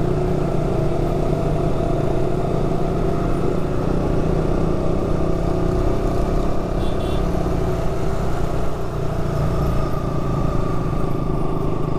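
KTM Duke 200 single-cylinder motorcycle engine running at a steady cruise while riding, its pitch holding nearly constant, over a low wind rumble.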